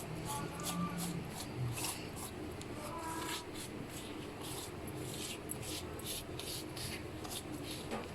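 Pastry brush spreading melted ghee over phyllo (galash) sheets in a baking tray: many short, soft brushing strokes.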